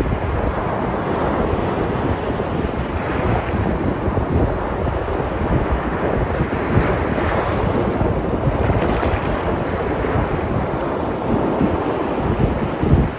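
Sea surf: waves breaking and washing onto the shore without pause, mixed with wind buffeting the microphone.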